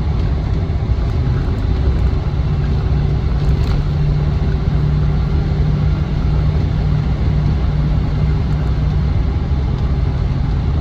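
A 1998 Land Rover Defender 90's 4.0-litre V8 with automatic gearbox, heard while driving with road rumble. There is a steady low drone that is strongest through the middle.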